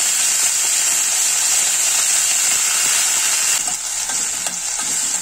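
Chopped broad beans sizzling as they sauté in hot oil in a stainless steel kadai. About three and a half seconds in, the sizzle eases a little and a metal spoon stirs them, with a few light clicks against the pan.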